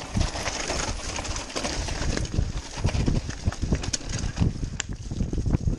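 Mountain bike jolting over a rough dirt trail: a steady run of irregular knocks and rattles from the bike, over tyre and wind noise.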